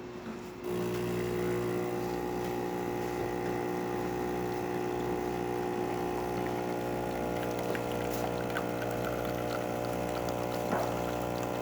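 Saeco super-automatic espresso machine pulling an espresso shot: about a second in, its vibratory pump starts and runs with a steady hum as it pushes water through the coffee and out of the spouts. A few faint ticks sound over the hum near the end.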